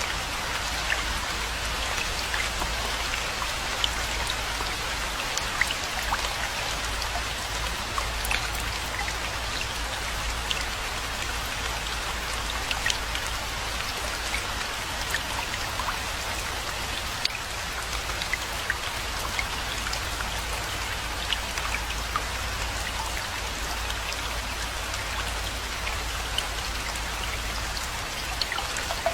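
Steady rainfall, an even hiss of rain with many sharp individual drop hits scattered through it, over a steady low rumble.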